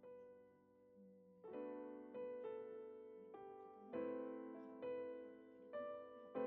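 Soft background piano music: slow chords struck one after another, each ringing and fading.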